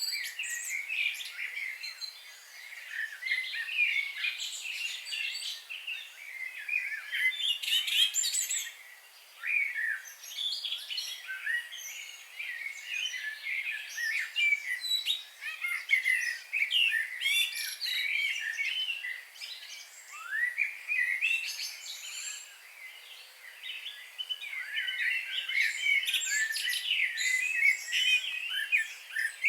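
Songbirds singing and chirping, a dense chorus of short, quick, high notes and trills, easing briefly twice.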